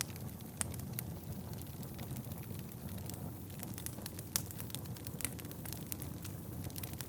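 Wood fire burning in an indoor fireplace: a steady low rumble of flames with frequent sharp crackles and pops from the burning wood, a few of them much louder than the rest.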